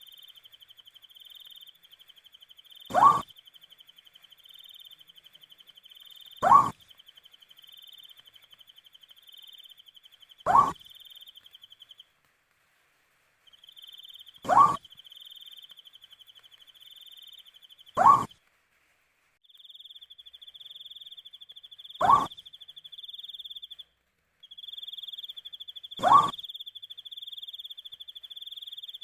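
An owl giving a short single hoot that rises slightly in pitch, repeated seven times about every four seconds. Beneath it runs a steady, pulsing high insect trill that breaks off briefly three times.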